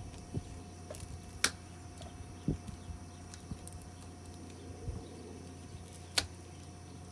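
Scattered sharp clicks and a few dull knocks of hand tools and metal parts during the dismantling of a rusty ceiling fan, over a steady low hum.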